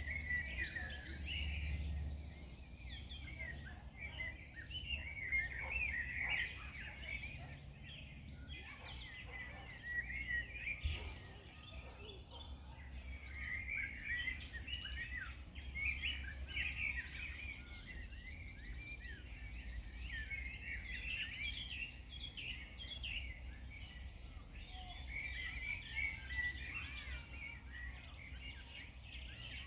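Several birds chirping and singing at once in a continuous, overlapping chorus of quick trills and tweets, over a steady low rumble.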